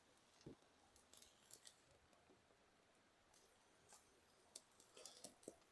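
Near silence with faint, scattered ticks and crackles from a small wood campfire.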